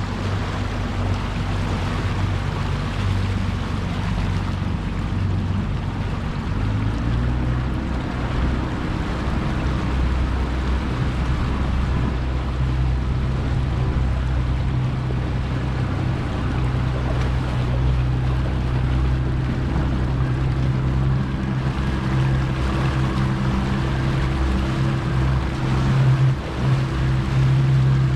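Yamaha 225 outboard motor running hard, its pitch climbing about six to eight seconds in and then holding steady near top speed, with wind and water rushing past the hull.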